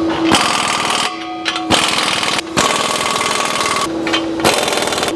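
Impact wrench hammering in several bursts of about a second each as it tightens the exhaust clamp nuts, with a steady hum between bursts.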